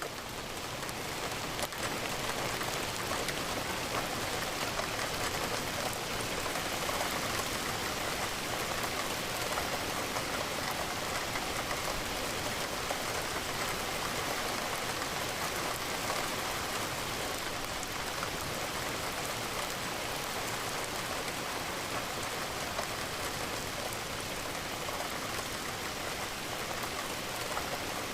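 Steady rain falling, an even, unbroken patter of raindrops.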